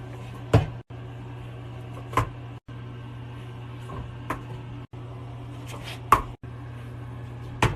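A sharp knock or tap about every one and a half to two seconds, five in all, over a steady low hum.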